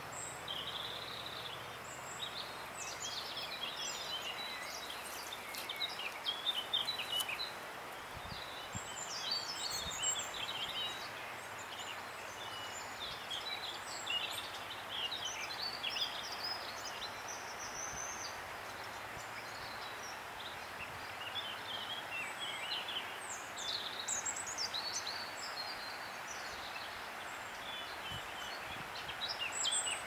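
Wild birds singing and chirping, many short calls and trills coming and going over a steady rushing background noise.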